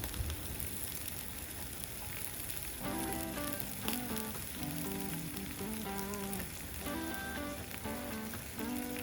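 Meat sizzling steadily as it fries on a hot iron steak plate, grilled yakiniku style. A simple background melody comes in about three seconds in.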